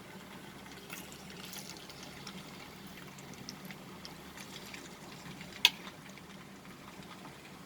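Chicken pieces frying in hot oil in a karai: a steady sizzle with scattered small crackles, and one sharp click about five and a half seconds in.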